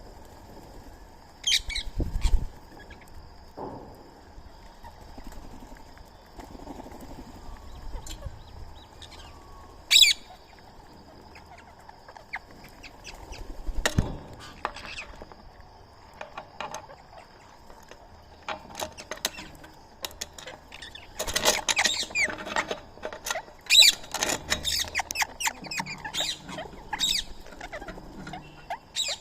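Birds calling outdoors: a few sharp single calls, then from about two-thirds of the way through a dense stretch of overlapping chattering and squawking calls.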